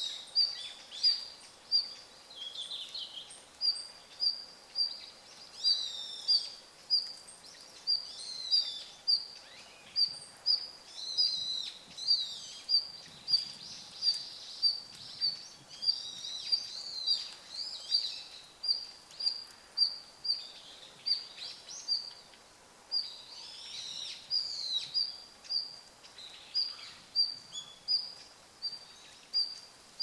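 Red-flanked bluetail giving its winter call note, a short high note repeated steadily about twice a second. Other chirps and warbling calls are mixed in among the repeated notes.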